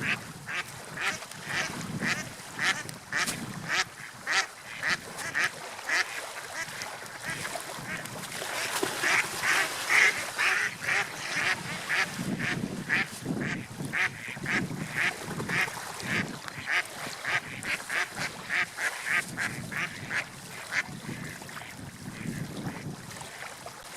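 Waterfowl calling in a long run of short, harsh calls, about two to three a second, with a brief pause partway through, over a steady background hiss.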